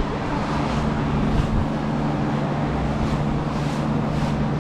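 A steady low machine hum, like a running engine or motor, holding an even level throughout, with faint light rustling over it.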